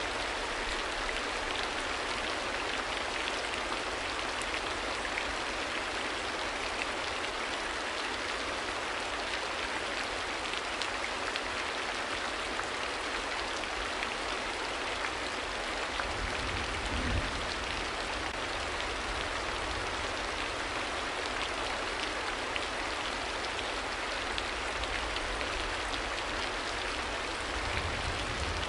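Steady rain falling: an even hiss with scattered drop patter, and a brief low rumble a little past halfway.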